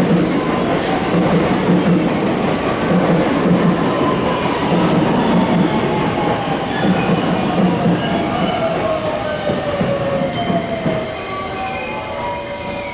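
Electric train braking into a station platform: running noise and wheel rumble with a motor whine that falls slowly in pitch as it slows, easing off about eleven seconds in as the train comes to a stop.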